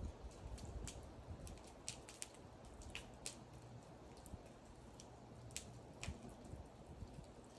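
Wood fire burning, with irregular sharp crackles and pops over a low, steady rumble of the flames.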